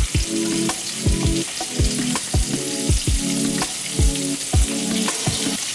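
Chicken pieces deep-frying in hot coconut oil, a steady sizzle. Background music with a steady thumping beat about twice a second plays over it.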